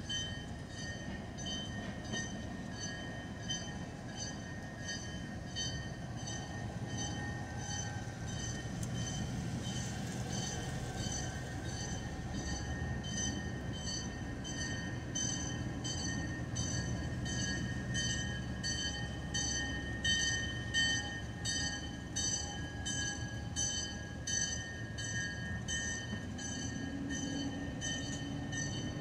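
Covered hopper cars of a slow freight train rolling past at close range: a low rumble under steady high-pitched ringing tones that pulse evenly, about twice a second. Near the end a diesel locomotive's engine note rises as it comes alongside.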